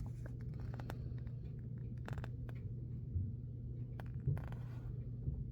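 Light handling of a Blu-ray booklet and case: scattered soft clicks, taps and scrapes of paper and plastic over a steady low hum.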